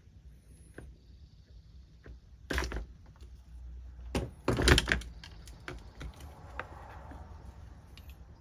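Parts being handled and set down: a clunk about two and a half seconds in, then a louder run of knocks and clatter around the middle, with scattered light clicks.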